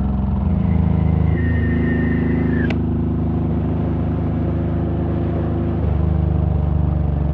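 Honda VTX1800's big V-twin engine running, its note shifting about a second and a half in and again near the end. A thin high whine ends in a sharp click a few seconds in.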